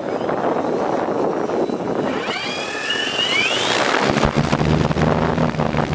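Wind buffeting the microphone, then a rising whine about two seconds in. From about four seconds in comes the steady low drone of the RHEA 160 hybrid hexacopter running, its onboard generator and large propellers spun up.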